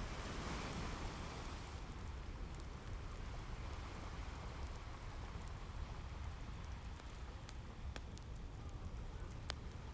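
Ocean waves washing ashore as a steady rush, with a crackling fireplace mixed over them. A wave swells in over the first couple of seconds, and sharp pops from the fire stand out about 8 and 9.5 seconds in.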